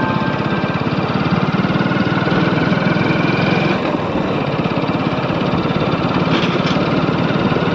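Motorcycle engine running steadily while riding, a fast even firing pulse mixed with road and wind noise.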